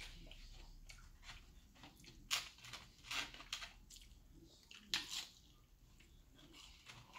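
Close-up chewing of fried fish, with short wet smacks of the lips and mouth about two, three and five seconds in.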